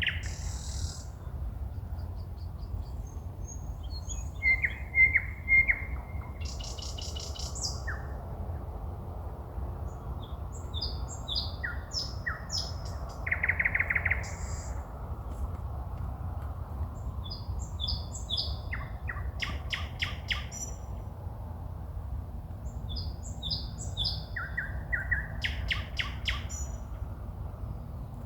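Songbirds singing at night: varied phrases of high whistles, trills and rapid series of clicking notes, the loudest a buzzy phrase about halfway through, over a steady low background rumble.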